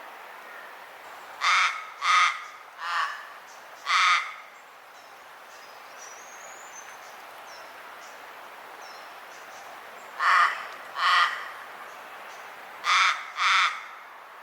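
Common raven calling: eight short, harsh croaks in three bouts, four, then two, then two, over a steady outdoor hiss. A faint higher bird chirp sounds about six seconds in.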